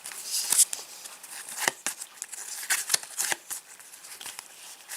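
Topps Match Attax football trading cards being flicked through and slid over one another by hand: a run of sharp papery clicks and rustles.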